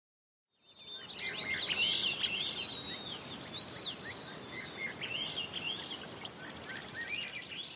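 Morning birdsong: several small birds chirping over a steady outdoor hiss, starting after a short silence.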